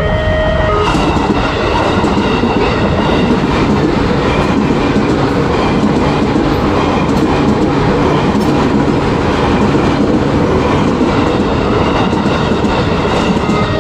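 A KRL Commuter Line electric multiple unit passing over a level crossing, with loud steady wheel-on-rail noise and clatter. The crossing's alternating two-tone warning alarm is clear for about the first second, then is covered by the passing train until it comes through again near the end.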